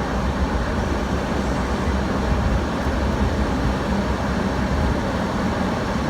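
Loud air conditioner running: a steady, even noise with a strong low hum underneath.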